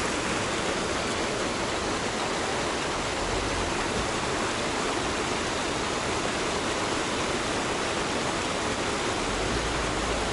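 Ushu Waterfall rushing steadily: a constant roar of falling water.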